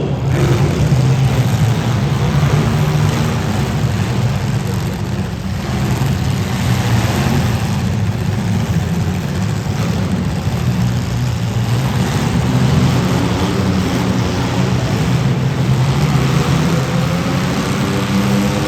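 Demolition derby cars' engines running and revving together, loud and steady throughout.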